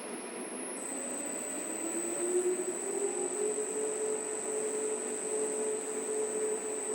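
Large 39 kg commercial front-loading washing machine running, its drum motor rising in pitch over a couple of seconds as the drum speeds up, then holding steady, with a steady high-pitched whine throughout.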